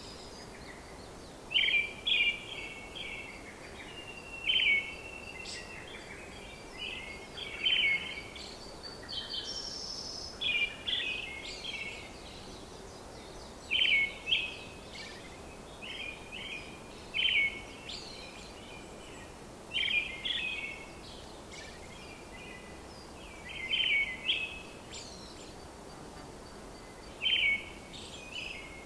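Small birds chirping in short repeated phrases every two or three seconds over a faint steady outdoor hiss.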